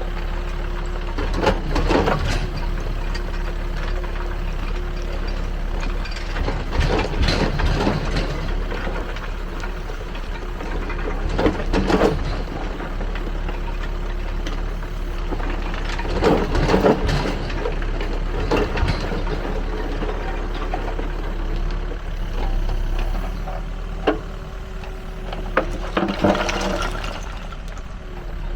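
Backhoe loader's engine running steadily, with short bursts of rattling and clattering every few seconds, about eight in all, from the roll screening bucket working soil and rubble.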